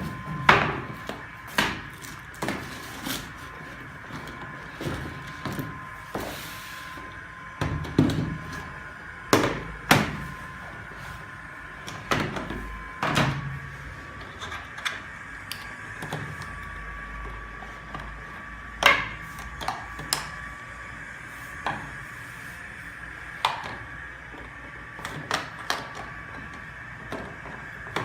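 Irregular plastic clicks, snaps and knocks as the main brush set of a Mamibot PreVac650 robot vacuum is handled and taken off, over a faint steady high hum.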